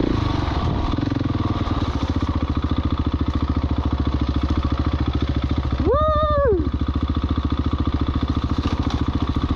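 Husqvarna 701 Enduro single-cylinder engine running under way with a steady, even pulse, heard from on the bike. A short vocal whoop cuts in for under a second about six seconds in.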